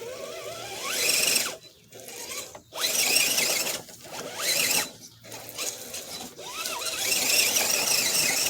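Redcat Gen7 RC crawler's electric motor and geared drivetrain whining in repeated bursts of throttle, the pitch rising and falling and cutting out briefly several times as the truck fights for grip in mud.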